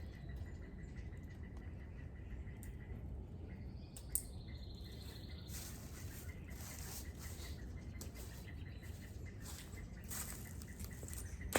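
Steady low outdoor background rumble, with a single sharp click about four seconds in, then a run of short rustling and scuffing noises through the second half.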